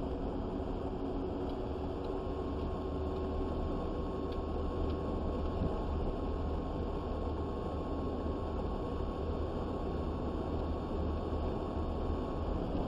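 Steady low drone of a truck's engine and road noise heard inside the cab while driving, with a faint thin steady tone through most of it.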